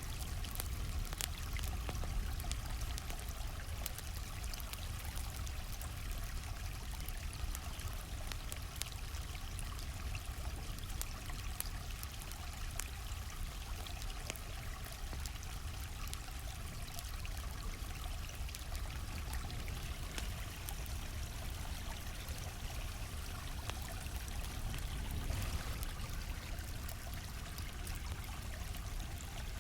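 A stream flowing steadily with a low rumble, over which a wood campfire crackles and pops throughout with sharp, irregular clicks.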